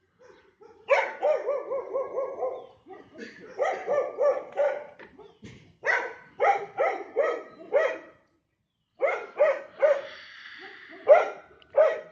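A dog barking in quick runs of sharp barks, a fast string of about eight near the start, then clusters of three to five with short pauses between.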